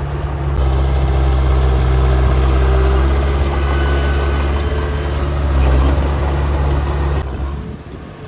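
Heavy diesel earthmoving machinery running with a steady low engine hum and clatter. The hum cuts off abruptly about seven seconds in, leaving a quieter background.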